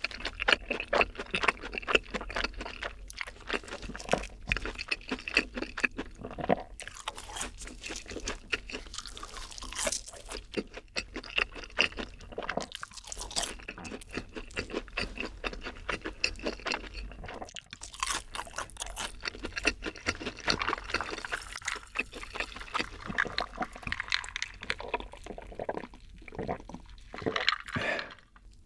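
Close-miked chewing of a full mouthful of cheeseburger, a dense, irregular run of small clicks and pops.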